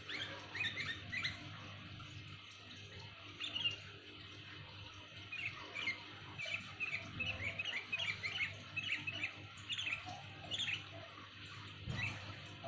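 Sooty-headed bulbul (kutilang) calling loud and clear in quick, short chirping notes: a flurry at the start, another about three and a half seconds in, and a longer run of rapid notes from about five to ten seconds in.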